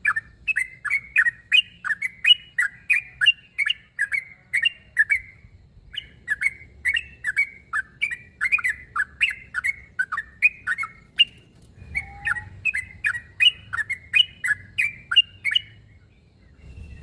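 Yellow-vented bulbul (trucuk) giving its excited challenge call: quick bubbly chirps, about three a second, in three runs with short pauses between them. It is a territorial call to a rival, the kind used to draw other bulbuls into answering.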